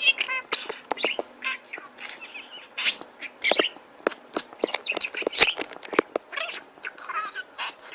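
Parrot chattering: a rapid run of short squawks, chirps and sharp clicks.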